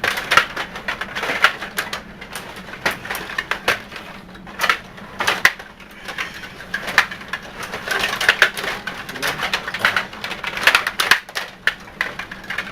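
Stiga table hockey game in play: plastic players, rods and puck clicking and clacking against each other and the table's boards, in quick irregular bursts.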